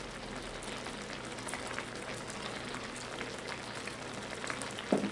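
Pot of army base stew bubbling at a steady simmer: a soft, even crackling hiss, with one short knock near the end.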